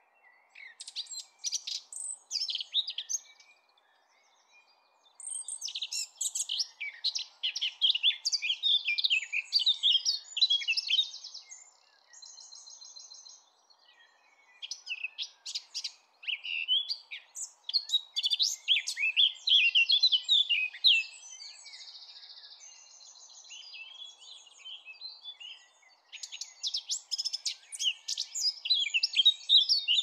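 Songbirds singing: long, rapid, warbling phrases of a few seconds each, with short pauses between them and a few buzzy trills in the gaps.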